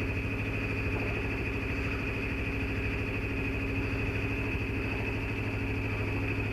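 Sailboat's engine running steadily under way, a low, even drone with a fast regular pulse.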